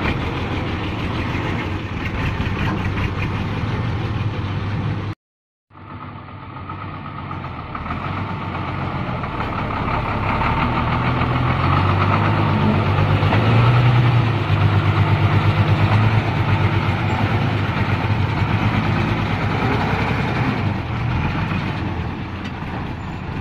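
Diesel engine of a modified Hino truck running. It cuts out to silence for about half a second about five seconds in, then grows louder and heavier, loudest a little past the middle, and eases off near the end.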